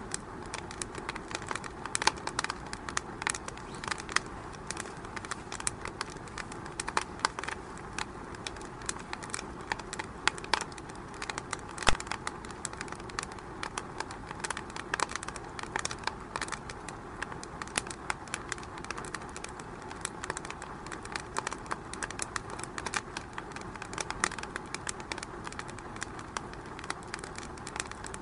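Wood fire burning in a fireplace, crackling with irregular pops and snaps of varying loudness over a soft steady hiss.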